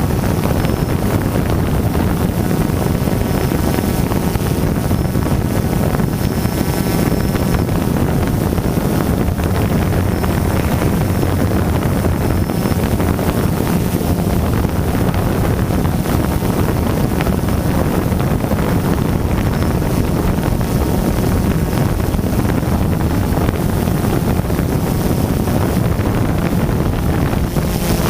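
DJI Phantom quadcopter's motors and propellers buzzing steadily, picked up by a GoPro mounted on the drone itself, with wind rushing over the microphone.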